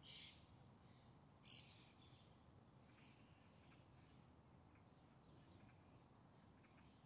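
Near silence with faint, scattered bird chirps, the loudest a short one about a second and a half in.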